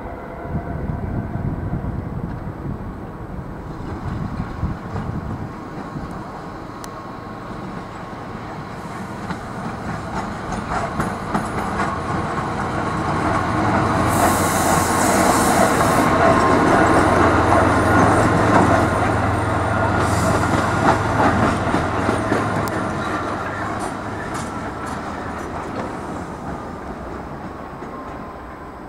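A train moving past through the station, growing louder to a peak about halfway and then slowly fading, with a low running hum and a clatter of wheels on the track. A brief high hiss sounds near the loudest point.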